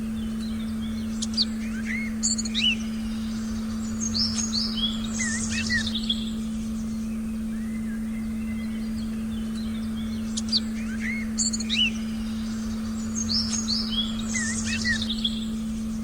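A steady pure meditation tone holds throughout under a forest recording of birds chirping. The same cluster of short high chirps and swoops comes twice, about nine seconds apart, as a looped recording does.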